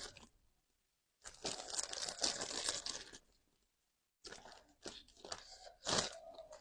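Close-miked crunchy chewing of fresh raw vegetables: a run of crackly crunching in the first half, then scattered small crunches and clicks near the end.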